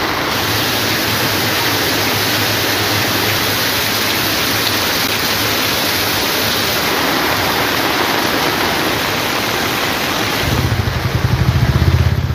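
Heavy rain pouring down steadily, with a faint low engine hum beneath it. Near the end a louder low rumble comes in.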